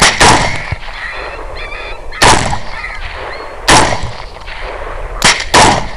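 Gunshots fired at a coyote: five sharp reports, the first about a third of a second in, then more at intervals of one to two seconds, the last two close together near the end. Faint calls, like geese honking, can be heard between the reports.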